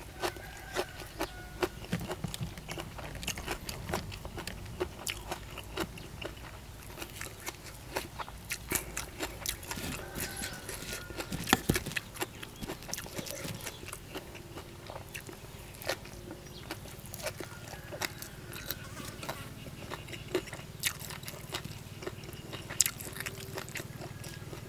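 A person chewing and crunching food close to the microphone, with many irregular sharp mouth clicks and crunches over a low steady rumble.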